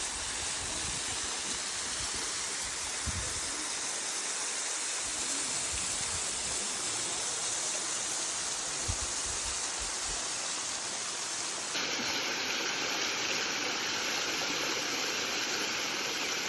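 Spring-fed waterfall streaming and splashing into a rock pool: a steady rush of falling water, which steps up a little and turns slightly louder suddenly about twelve seconds in.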